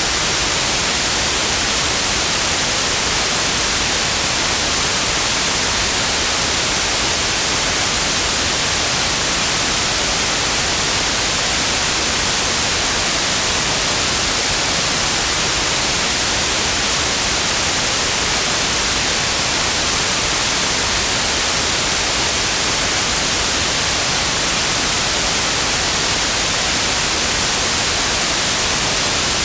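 Synthetic white noise: a steady, even hiss, loudest in the high range, with no change or events.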